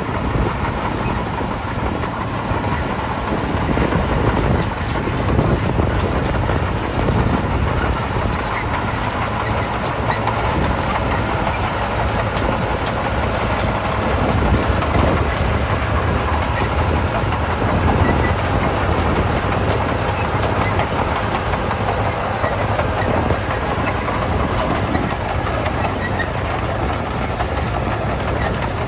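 Komatsu D41P crawler bulldozer working, its diesel engine running steadily under load with a continuous rattle and clank from the steel tracks.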